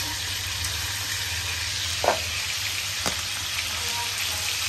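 Hot oil sizzling steadily as pieces of meat fry. There is a metal clink from the tongs against the pan about two seconds in, and a sharper click a second later.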